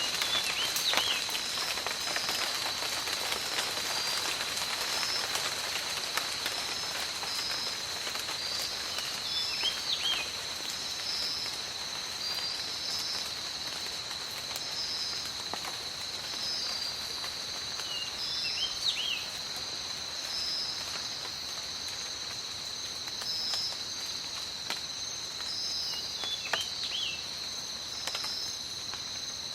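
Steady tropical rain falling with scattered drips, under a continuous high insect drone and a pulsing insect call that repeats about every second and a half. A short chirping call comes four times, roughly every eight to nine seconds.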